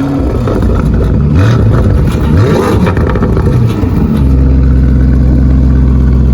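Lamborghini Urus Performante's 4.0-litre twin-turbo V8 revving loudly through an Akrapovič exhaust. It is blipped up in a few short rising revs, then held at steady revs from about four seconds in.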